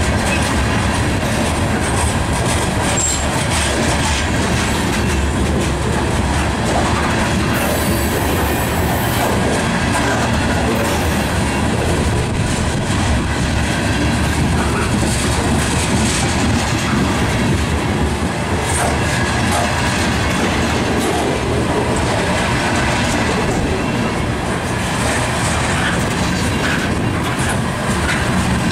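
A freight train's covered hopper cars rolling past close by: a steady, loud rumble and clatter of steel wheels on the rails.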